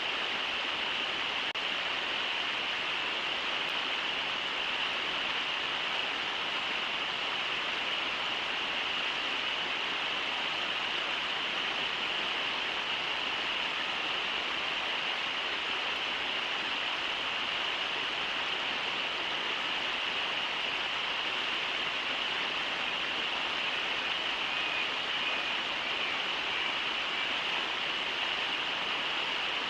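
Steady rushing of the Brooks River's water at the riffles below Brooks Falls, an even hiss with no breaks.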